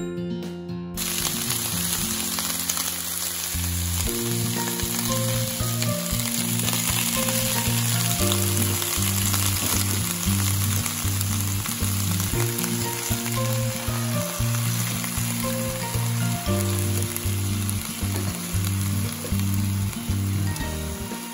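Cut garlic scapes sizzling as they stir-fry in a hot pan; the steady sizzle starts about a second in.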